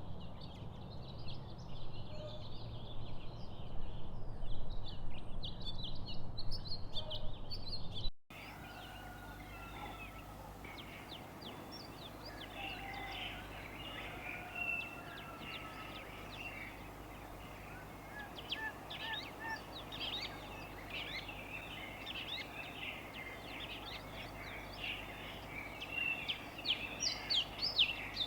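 Several wild birds chirping and singing in short, overlapping calls. About 8 seconds in the sound cuts abruptly to a different recording, where many birds chirp over a steady background hiss.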